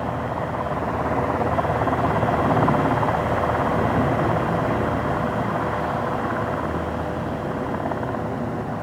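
Engine noise of a military aircraft flying past, swelling to a peak about two to three seconds in and then slowly fading.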